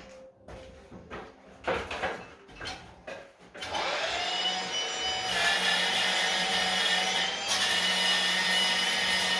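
A few knocks and scrapes, then about three and a half seconds in a power tool fitted with a steel wire brush spins up with a rising whine. It runs steadily with a harsh hiss as the wire brush scrubs the stone wall.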